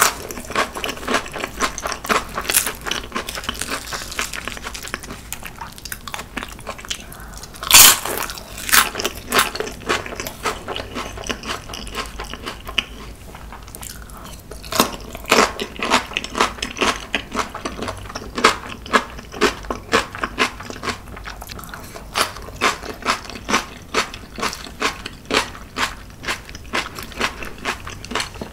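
Close-miked eating sounds: wet chewing and crunching of mouthfuls of spicy marinated crab with rice and cucumber kimchi, in a steady rhythm. A few louder crunches stand out, the loudest about eight seconds in.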